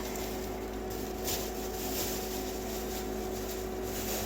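Steady hum of a small electric space heater running, with a few faint rustles.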